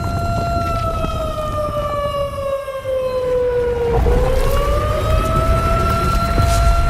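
Emergency alarm siren sounding a steady tone that slides down in pitch for about three seconds, then rises back up and holds steady again, over a low noise.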